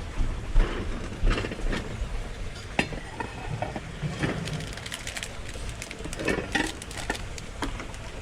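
Kitchen and buffet clatter: scattered clinks and knocks of dishes, pans and utensils over a steady low rumble, with an omelette frying in a pan.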